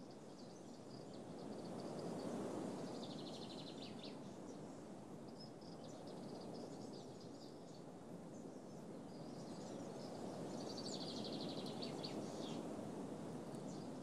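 Outdoor ambience: a steady low background hum with small birds chirping, including a rapid trill about three seconds in and another about eleven seconds in.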